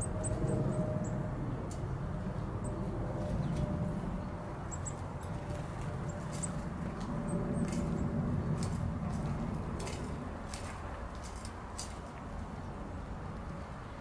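Small birds giving short, very high-pitched chirps now and then, mostly in the first half, with sharp little clicks scattered through, over a steady low rumble and a faint thin hum.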